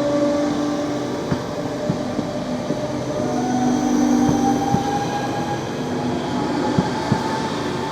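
DB class 424 S-Bahn electric multiple unit running, with a steady whine and a tone that rises slowly in pitch through the second half. Several sharp clicks, like wheels over rail joints, come through it.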